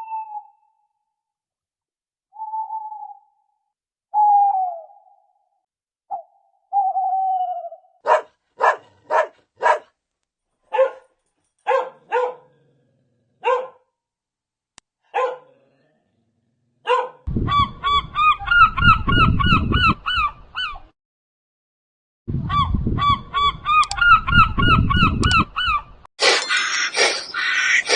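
A run of different animal calls, one clip after another: a few short falling calls, then a series of short honks at about two a second, then two bursts of rapid warbling calls over rumbling noise, and a dense mixed chorus near the end.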